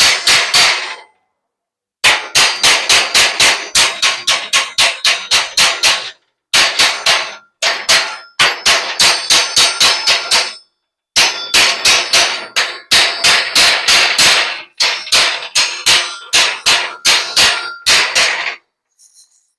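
Hammer striking metal in quick, even blows, about three to four a second, in runs of a few seconds broken by short pauses.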